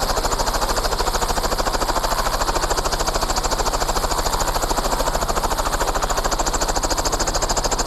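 Helicopter running close by, its rotor giving a loud, steady, rapid even thumping.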